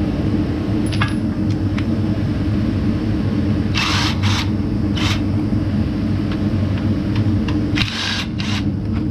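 Short bursts of metal rattling and clicking from hand tools working on scooter parts: a pair near the middle, one just after, and two more near the end. Under them runs a steady low hum.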